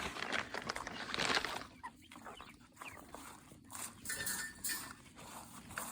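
Chickens clucking, with scratchy rustling sounds; the biggest rustle comes about a second in, and a brief higher call comes a little past four seconds in.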